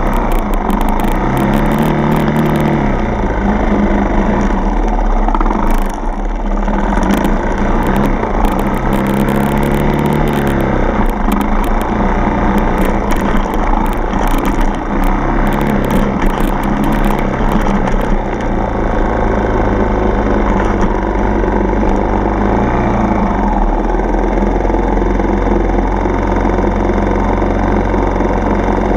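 Dirt bike's single-cylinder four-stroke engine running under way, its pitch rising and falling several times as the throttle is opened and eased off. Frequent sharp clicks and knocks through the first two-thirds.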